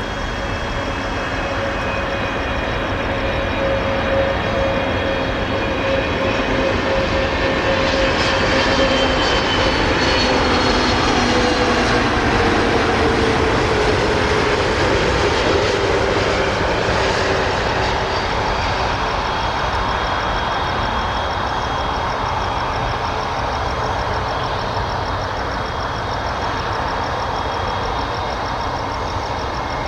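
Airbus A320neo jet airliner passing low on its landing approach: a steady engine whine and rush that swells, then drops in pitch as the aircraft goes by about halfway through.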